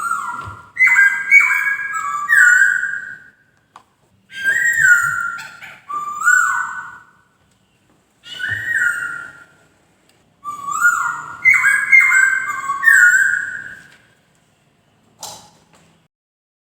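Poksay (laughingthrush) singing: four loud phrases of clear, whistled notes that step up and down in pitch, with short pauses between them and a brief last note near the end.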